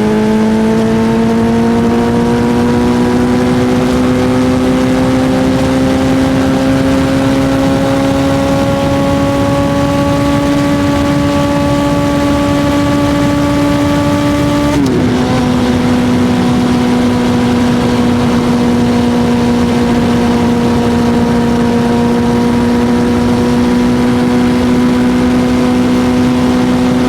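Suzuki GSX-R1000 inline-four engine held at high revs, its pitch creeping slowly upward. About halfway through the pitch drops suddenly as it shifts up a gear, then holds steady, over a constant rush of wind noise.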